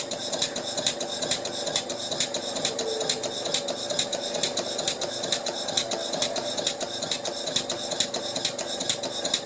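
Stuart Turner model horizontal mill engine running on compressed air, its exhaust beating rapidly and evenly over a steady hum.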